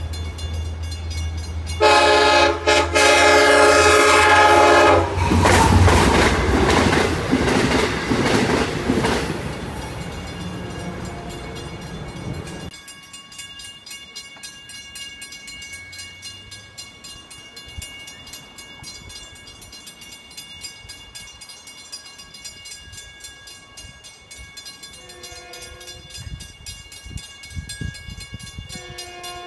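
Commuter train horn sounding a chord of several notes for the grade crossing, about two to five seconds in. The train then passes at speed with a loud rush and clatter of wheels on rail, which drops off sharply around thirteen seconds in. Fainter steady tones follow, with a short distant horn sound near the end.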